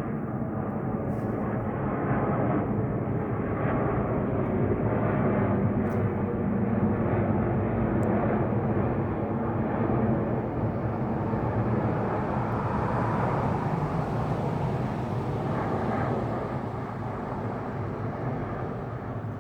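Virgin Australia airliner flying overhead, its jet engines making a loud, steady rumble with a droning tone through it. The noise is loudest mid-pass and eases off near the end, a sound likened to a rocket.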